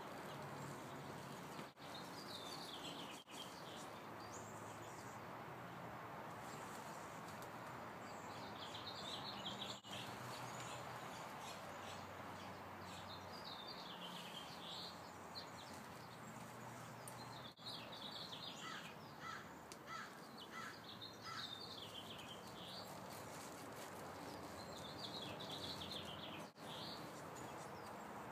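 Songbirds singing short, high, warbling phrases every few seconds over a steady outdoor background noise, with a run of five short lower chirps about two-thirds of the way through.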